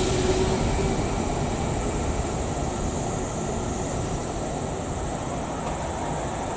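Train running past on the tracks: a steady rumble of wheels and running gear that eases off slightly, with a steady high hiss above it.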